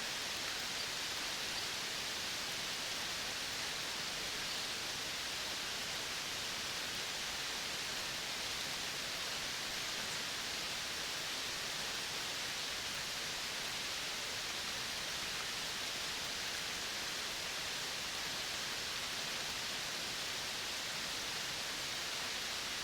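Steady, even hiss of an outdoor natural soundscape, with no distinct calls or events standing out.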